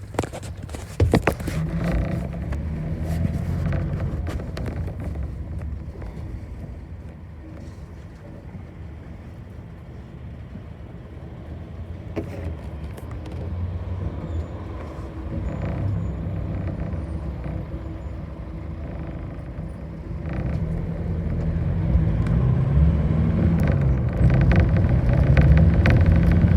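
Bus engine running with a few knocks about a second in, then getting louder in the second half as it pulls away, its pitch rising and falling through gear changes.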